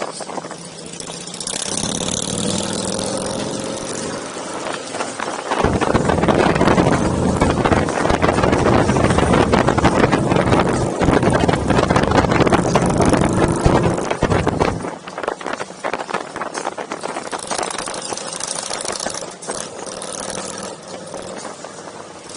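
Motorcycle engines running, much louder for about nine seconds in the middle, then dropping back suddenly.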